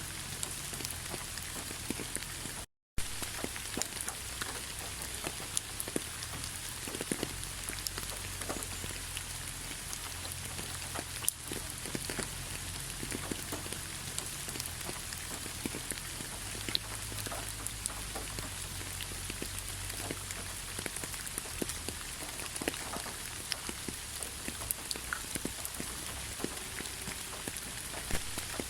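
Steady rain falling, with many individual drops tapping close by over an even hiss. The sound cuts out completely for a moment about three seconds in.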